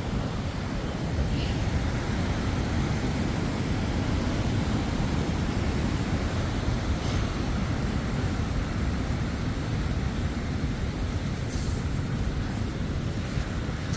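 Steady, unbroken rush of the fast-flowing River Tees pouring over Low Force waterfall.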